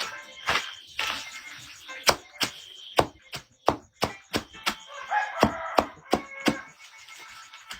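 Repeated chopping: a string of sharp blade strikes, about two a second.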